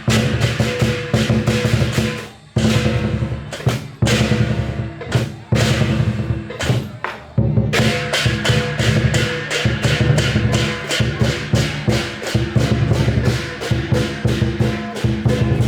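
Lion dance percussion ensemble playing: a big drum beaten with cymbals clashing over a steady ringing tone. The rhythm breaks off briefly a few times, then settles about halfway through into a steady fast beat of about four strikes a second.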